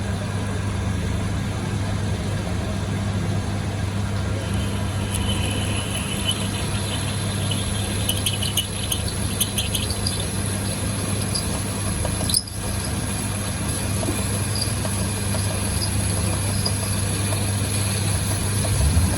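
A workshop machine running steadily with a constant low hum, briefly dipping in level about twelve seconds in.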